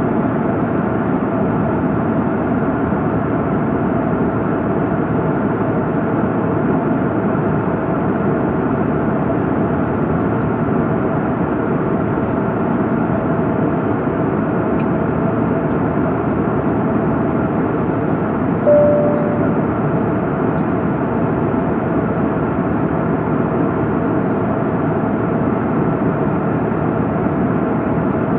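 Steady airliner cabin noise at cruise, the even sound of the jet engines and airflow heard from inside the cabin. A short single tone sounds about two-thirds of the way through.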